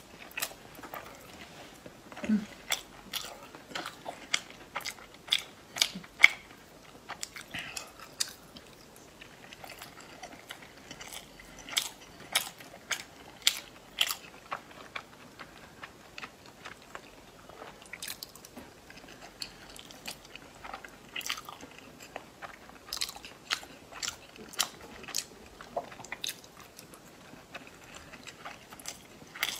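Close-miked eating sounds of salmon nigiri sushi being chewed: irregular wet smacks and small clicks of the mouth, at times several a second.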